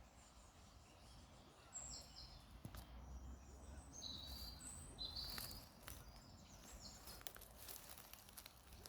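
Faint outdoor ambience with a few short, high bird chirps, and scattered clicks in the second half over a low rumble.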